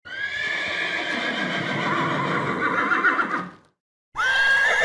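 Horse whinnying: one long whinny of almost four seconds, then, after a short pause, a second whinny that rises sharply and holds its pitch near the end.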